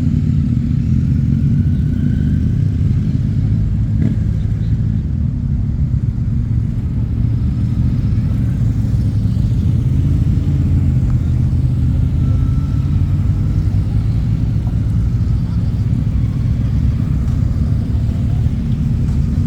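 Motorcycle engines running steadily, a low rumble without revving.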